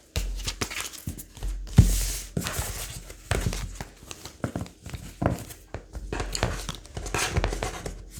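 Tarot cards being shuffled and handled: a quick run of papery rustles and snaps, with one louder knock just under two seconds in.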